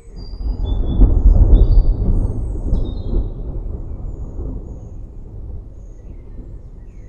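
A roll of distant thunder that swells quickly, is loudest about one to two seconds in, and slowly fades away. Birds chirp over it in the first few seconds.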